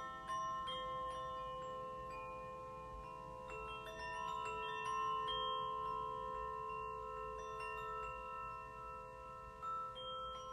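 Struck metal tones of a steel tongue drum (glucophone) and chimes, notes starting one after another every second or so and ringing long and overlapping, over a faint low steady rush.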